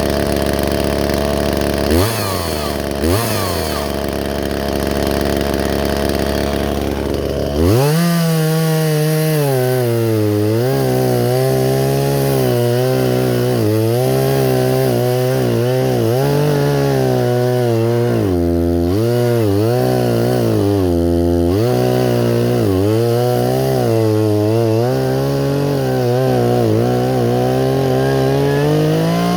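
Two-stroke chainsaw idling with two quick throttle blips, then revved up about a quarter of the way in and held at high speed, its pitch sagging and wavering under load as it cuts wood.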